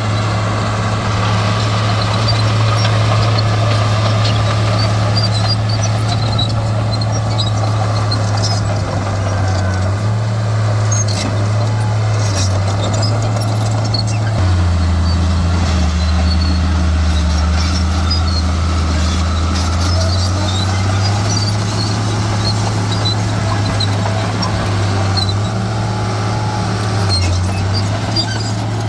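Diesel engine of heavy earthmoving equipment running steadily. Its engine speed drops about halfway through and picks back up a few seconds later.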